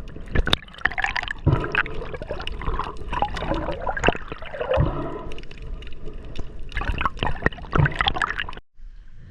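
Water splashing and gurgling close to the microphone, with irregular sharp splashes and clicks, cutting off suddenly near the end.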